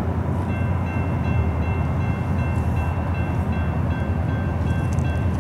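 Low, steady rumble of an approaching diesel-hauled train that is not yet in sight. About half a second in, a high ringing tone starts, pulsing on and off in quick regular repeats.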